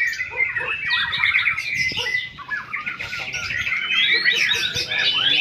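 Several caged white-rumped shamas singing at once, a dense run of overlapping rapid chirps, trills and whistled phrases.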